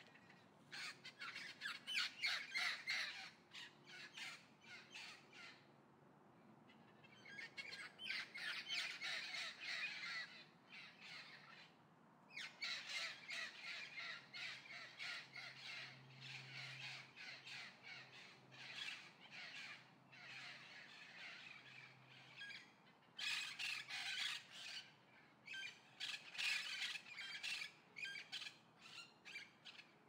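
Harsh, rapidly repeated bird calls in several runs of a few seconds each, with short breaks between them.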